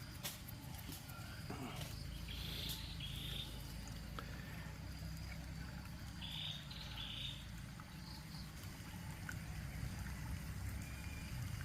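An animal calling outdoors: two pairs of short raspy calls, about four seconds apart, over a steady low rumble.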